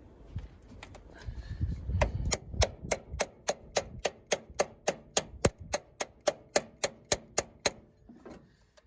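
A steady run of about twenty sharp metal-on-metal taps, three to four a second, ending near the end: a metal tool tapping a battery terminal adapter down onto a battery post. Low handling knocks come before the taps start.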